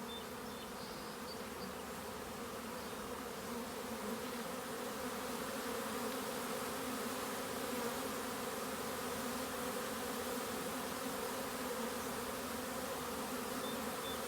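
Steady, dense hum of a great many honey bees flying around their hives, the colonies out in full force after being cooped up all day by rain. It grows a little louder about four seconds in.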